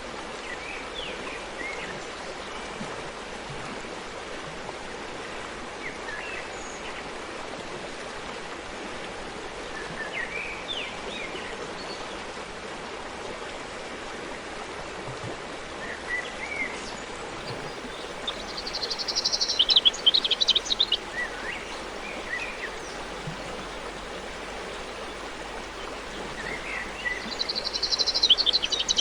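Steady rushing of a forest stream, with birds chirping now and then. Twice, once about two-thirds of the way through and again near the end, a bird sings a loud, rapid, high trill.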